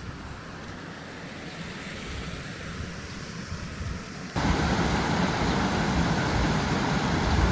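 Steady rush of flowing river water, which becomes abruptly much louder and fuller a little over four seconds in.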